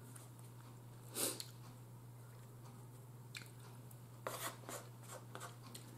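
Faint eating sounds: a person chewing a mouthful of pork chop, with a cluster of short, soft mouth clicks about four seconds in, over a steady low hum.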